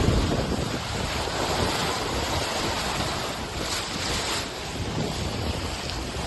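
Wind buffeting the microphone over the rush of water past a sailboat under way, with a louder hiss of water about four seconds in.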